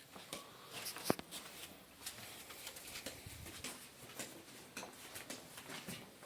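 Scattered light clicks, rustles and small knocks of people moving about in a small room, with one sharp click about a second in.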